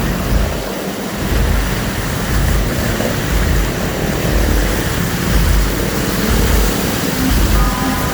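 Steady rush of heavy rain and traffic on a flooded city road, with an uneven low rumble underneath and a short steady tone near the end.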